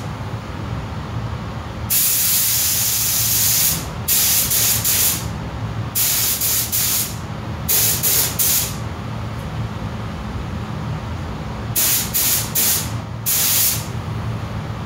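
Pneumatic paint spray gun spraying primer in bursts of hiss: one long pass of about two seconds, then a run of shorter trigger pulls. A steady low hum runs underneath.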